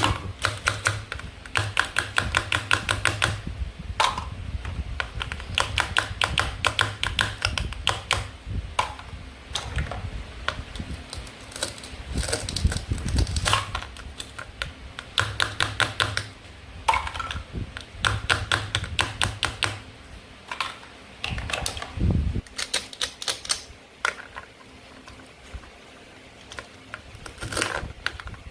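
Plastic toy fruit and vegetables being cut and handled, making bursts of rapid clicking and crackling, one cluster after another with short pauses between them.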